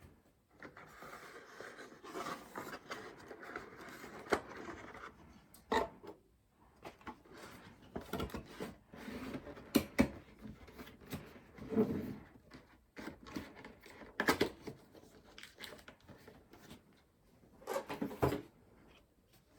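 Hands handling PC components for a graphics-card install: rubbing and rustling, broken by scattered sharp clicks and light knocks, the loudest about ten seconds in and again near the end.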